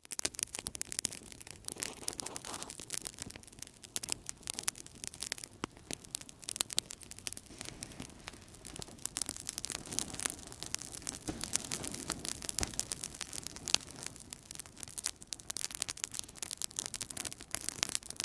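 Outdoor campfire crackling: a dense, steady run of small sharp pops and snaps over a soft low rush of burning.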